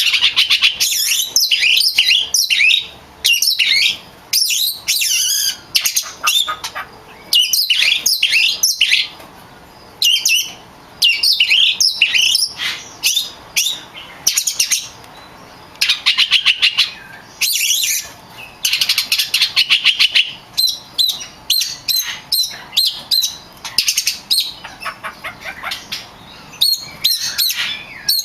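Oriental magpie-robin (kacer) in full song: loud, varied phrases of whistled and chattering notes in quick bursts with short pauses between them, some passages made of fast runs of repeated notes.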